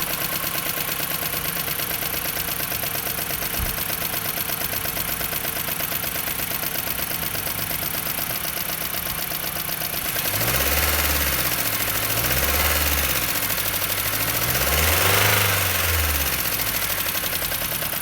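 Jeep Patriot's 2.4-litre four-cylinder engine running with a fast, steady tapping knock, then revved up and down three times about halfway through. The knock was traced to excessive exhaust valve clearances, 0.30–0.55 mm, and heavily worn rockers and camshaft.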